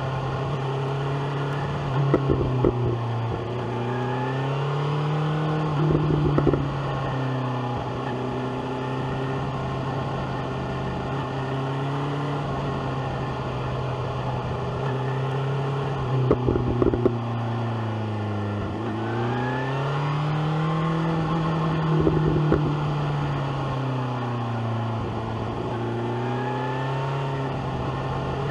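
BMW S1000R's inline-four engine running at moderate revs, its pitch easing down and rising again as the throttle changes, with about four brief loud crackles.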